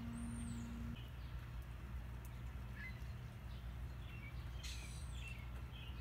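Birds calling outdoors: a thin, very high whistled note that rises and falls right at the start, scattered short chirps, then a busier cluster of calls with another high arching note about five seconds in. A steady low rumble of background noise runs underneath.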